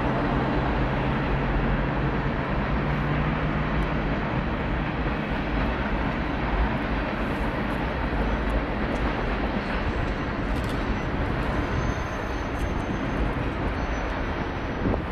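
Union Pacific freight train's cars rolling past: a steady rumble of wheels on the rails.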